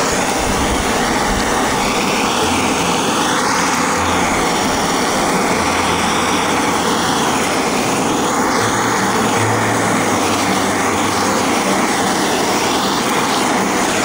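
Handheld butane gas torch burning with a steady rushing hiss as its flame browns the cheese on a hamburg steak in a cast-iron skillet.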